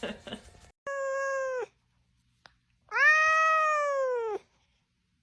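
A domestic cat meowing twice. The first meow is short and level, dropping in pitch at its end. The second is longer, rising and then falling in pitch.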